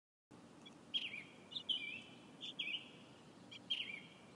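Birdsong: several groups of short, quick-bending chirps, roughly a second apart, over a faint steady background hum. It starts abruptly about a third of a second in.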